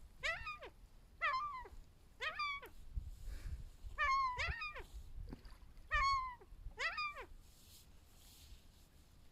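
Gulls giving mewing calls: about seven short cries, each sliding steeply down in pitch, coming every second or so and stopping near the end.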